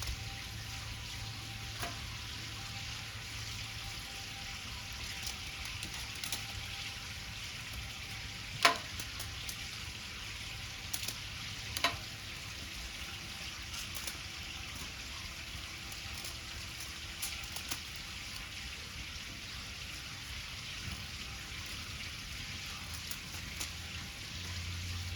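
Wood fire crackling with a steady hiss and scattered sharp pops, the loudest about nine and twelve seconds in.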